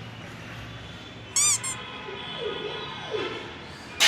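A kitten giving a short, high, squeaky mew about a second and a half in, rising and falling in pitch, followed by two faint falling mews.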